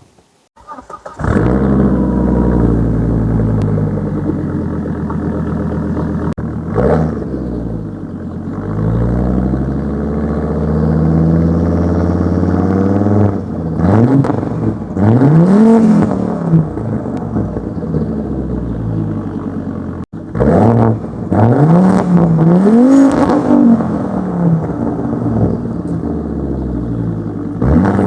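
Volvo S60 T5 turbocharged petrol engine starting about a second in and idling, then revved several times, each rev rising in pitch and falling back to idle.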